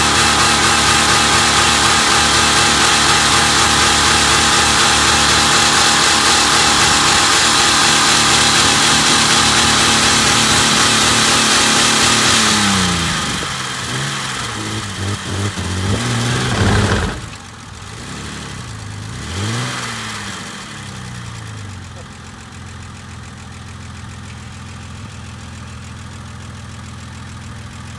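Jeep Grand Cherokee engine, filled with Roundup weedkiller in place of engine oil, held at high revs for about twelve seconds. The revs then swing down and up a few times, and it settles to a steady idle for the last several seconds.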